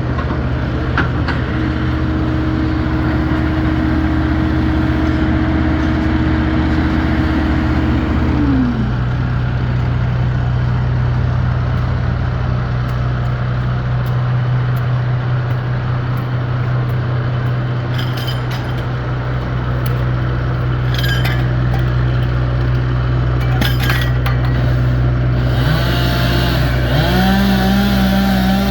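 Engines running steadily with a low hum, with a few short clinks in the second half; near the end a higher engine note rises and then holds steady.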